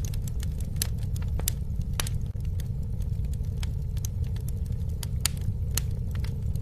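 Campfire burning, its wood crackling with scattered sharp pops and snaps over a steady low rumble of the flames.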